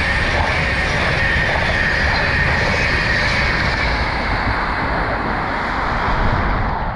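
A train passing at speed: a loud, steady rush of wheels and air that begins to fade near the end.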